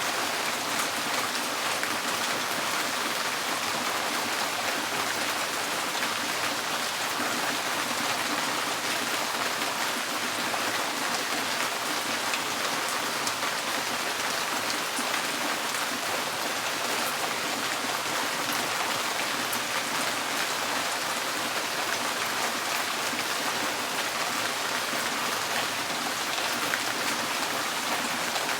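Steady rain falling on a tin porch roof, a dense even patter of drops on the metal.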